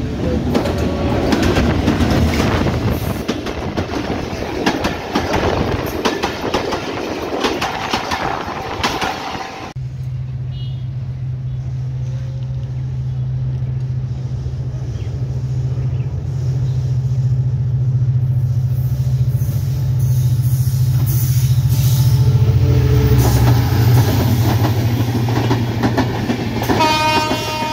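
Passenger coaches rush past close by, their wheels clattering over the rail joints. About ten seconds in, this gives way abruptly to the steady low drone of a diesel locomotive's engine, which grows louder. A train horn sounds near the end.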